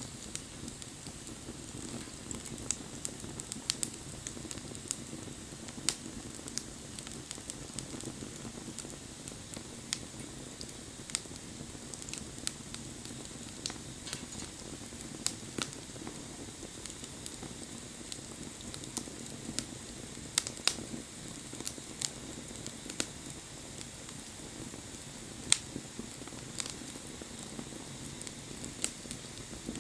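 Wood bonfire crackling, with irregular sharp pops and snaps over a steady hiss of burning. A few pops stand out louder, one about three-quarters of the way through.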